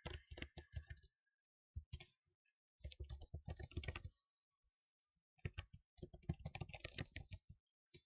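Typing on a computer keyboard: quick runs of key clicks lasting about a second each, broken by short pauses.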